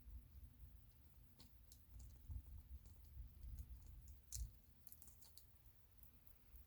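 Near silence with faint, scattered small clicks and taps, a few bunched together about four to five seconds in.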